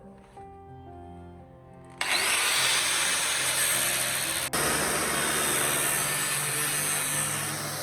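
Soft string music for about two seconds, then an abrupt cut to the loud, steady hiss of a power tool grinding or sanding. It breaks for an instant about four and a half seconds in, and a low motor hum runs under it after that.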